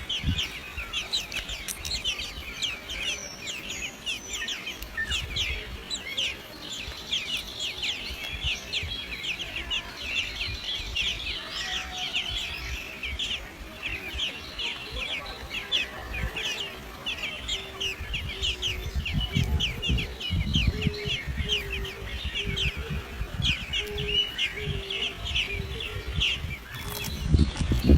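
Birds chirping in a dense, rapid stream of short high chirps. In the second half a low, short note repeats about twice a second, and a low rumble rises near the end.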